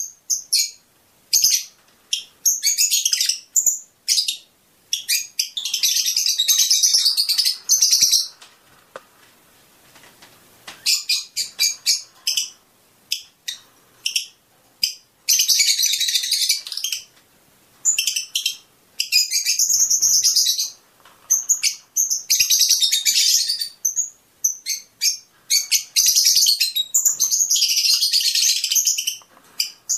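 Fischer's lovebirds chirping: rapid, shrill chattering that comes in bursts of a second or two with short gaps between them, and a longer lull about nine seconds in.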